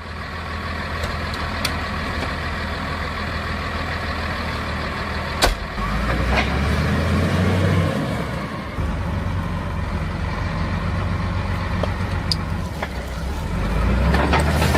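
Truck engine and road noise running steadily, with a single sharp click about five and a half seconds in.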